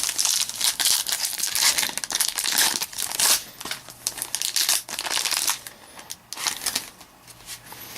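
Plastic trading-card pack wrappers crinkling and rustling as football card packs are handled and torn open, a steady run of crackly rustles that thins out near the end.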